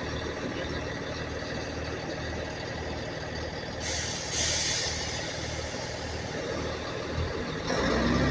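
A diesel train's engine idling with a steady low throb, a hiss of air brakes being released about four seconds in, then the engine louder and rising in pitch near the end as the train starts to pull away.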